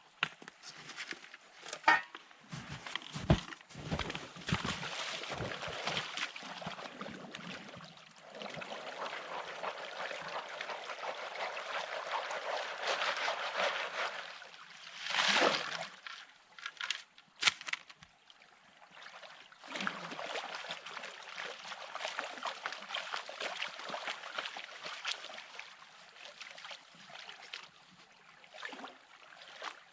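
Water pouring and sloshing in long stretches, with a few sharp knocks in the first few seconds and a brief louder splash about halfway through.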